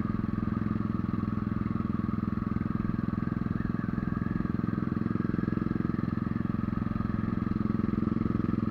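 Motorcycle engine running steadily at an even pitch under load on an uphill mountain road. In the thin air at this altitude it is short of power, which the rider likens to carrying four passengers.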